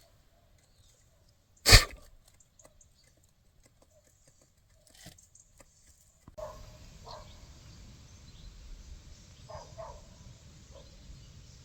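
One loud sharp thud about two seconds in, then after an abrupt change a steady outdoor background with a few short animal calls.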